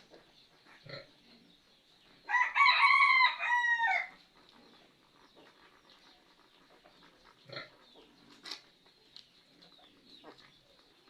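A rooster crows once, a single loud call of about two seconds starting a couple of seconds in, amid faint scattered knocks and a thin steady high-pitched hum.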